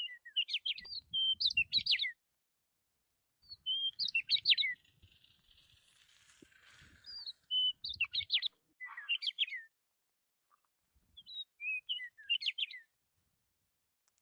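Budgerigars chirping and warbling in four short bouts of quick, high notes with pauses between them.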